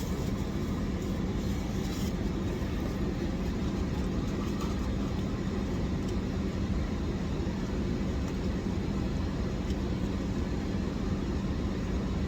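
Steady low hum and rumble of an idling car engine, with one constant tone throughout.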